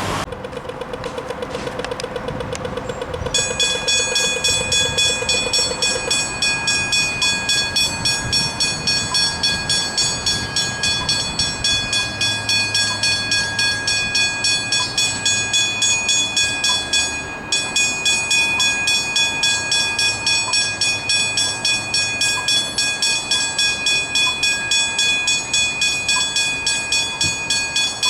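Railway level crossing warning bells ringing in a steady rhythm, about two strokes a second. A louder bell joins about three seconds in.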